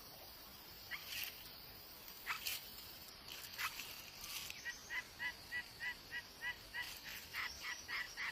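A bird calling: a few scattered short calls, then from about halfway a steady series of short, evenly spaced calls, about three a second. A steady high hiss of insects runs underneath.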